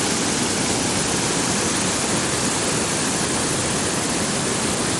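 Waterfall on a mountain creek, its water falling in a steady, even rush.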